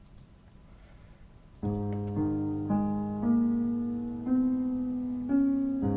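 A piano-like keyboard sample plays back after a quiet first second and a half, with a held low bass note under a melody whose notes change about every half second to a second.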